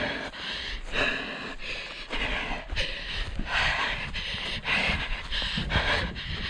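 A runner panting hard, about one breath a second, with footfalls and wind rumbling on the microphone.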